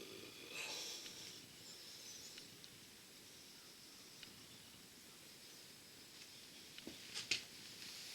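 Faint handling noises during engine teardown: a soft rustle about a second in, then a few light clicks, with a sharper pair of clicks near the end.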